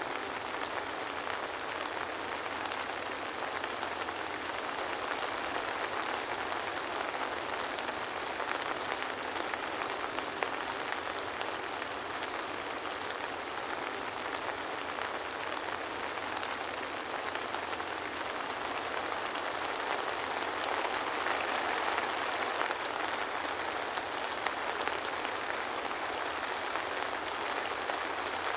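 Steady soft rain falling, an even patter of many small drops with no thunder.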